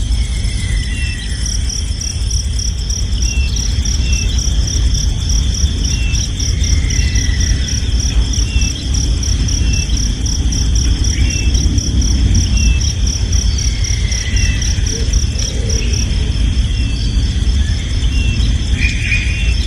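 Insects, cricket-like, trilling steadily in a fast-pulsing high tone, with short high chirps repeating every two seconds or so over a constant low rumble.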